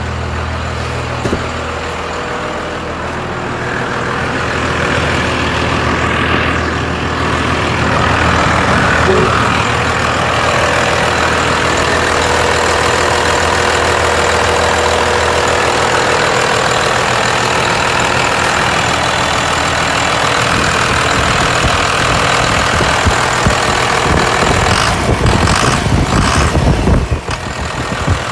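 12-valve Cummins inline-six diesel, swapped into a Ford pickup, running at idle: a steady low engine sound that gets louder a few seconds in, with some uneven bumps near the end.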